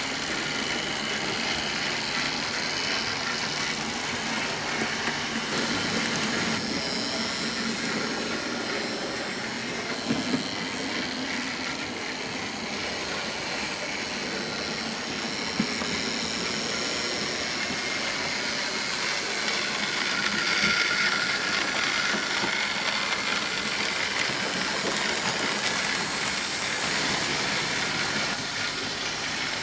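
OO gauge model trains running on the layout track: a steady rattle of wheels on rail with electric motor hum. There are a few light clicks along the way, and a higher whine comes up about twenty seconds in.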